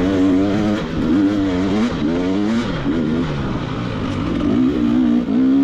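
Two-stroke dirt bike engine, a KTM 300 XC-W, riding a trail with the revs rising and falling constantly as the throttle is worked.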